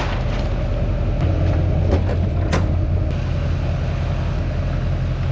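A vehicle engine running steadily, its low hum shifting slightly about a second in, with a few sharp clicks or knocks over it.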